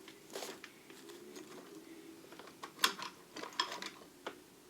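Small metal lathe tools clinking and rattling as they are handled and shifted in a toolbox drawer: a string of light clicks, the sharpest just under three seconds in.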